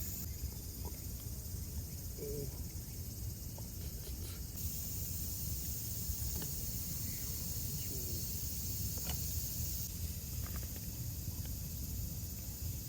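A steady chorus of summer insects buzzing high overhead, swelling louder for a few seconds in the middle, over a constant low outdoor rumble, with a few faint clicks.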